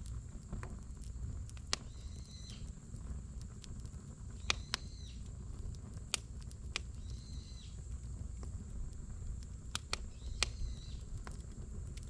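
Wood campfire crackling, with sharp, irregular pops and snaps from the burning logs over a low, steady rumble.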